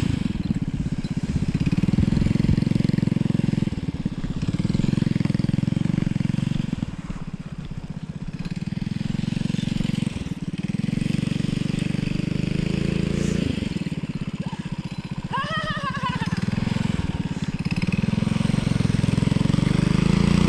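Vintage minibike's small engine running, revving up and easing off again and again as it is ridden.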